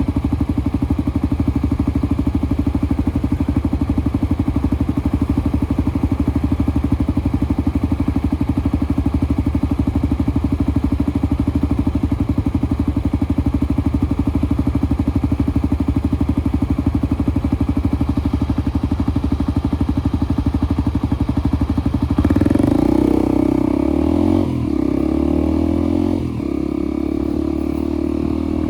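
Motorcycle engine running at a steady speed while riding. About 22 seconds in the engine note changes: it briefly gets louder, then its pitch and level shift in steps.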